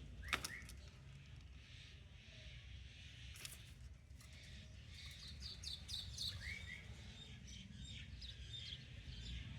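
Pet parrot in its cage giving a few faint short chirps, with a couple of sharp clicks and a low steady hum under it.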